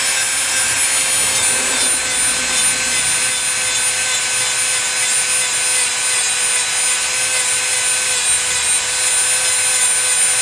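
Dremel rotary tool running at a steady high-pitched whine, its bit grinding and rubbing old paint off a composition doll arm.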